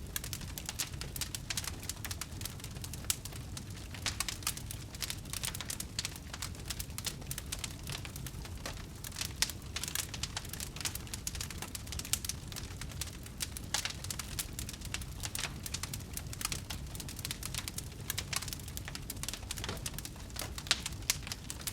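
Wood fire burning, with many small irregular crackles and pops over a steady low rumble of the flames.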